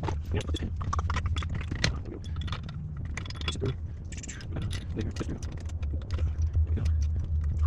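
Small metal parts and hand tools clinking, tapping and scraping as they are handled, in many short irregular clicks over a low steady hum.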